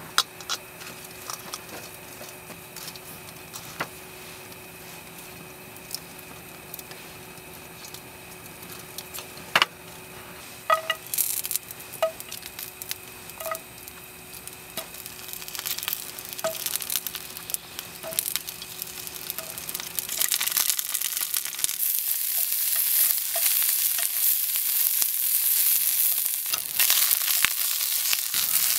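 Green beans and mushrooms frying in a pan, the sizzle building to a loud, steady hiss over the second half. Before that there are scattered light clicks and knocks.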